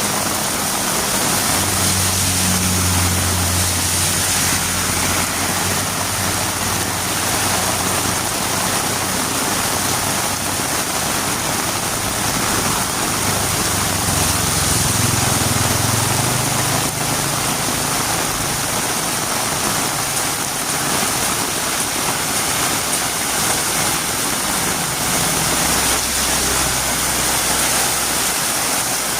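Heavy rain falling steadily, a dense even hiss. Under it a low hum swells and fades three times, in the first third, near the middle and near the end.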